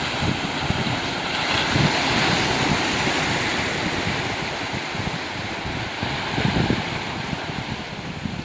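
Ocean surf washing over a rocky beach, with wind buffeting the microphone in low gusts. The wash swells about two seconds in and eases off near the end.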